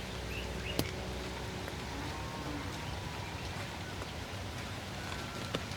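Outdoor garden ambience: a steady even hiss, with one sharp click a little under a second in and a few faint short chirps.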